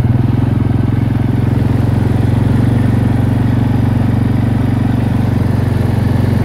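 ATV engine running steadily under light throttle in low range, first gear. It picks up right at the start as the quad works its way up onto deep snow.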